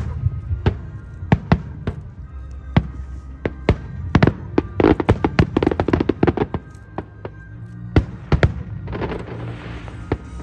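Aerial fireworks bursting in an irregular string of sharp bangs, thickest about halfway through, with a spell of crackling near the end, over the show's background music.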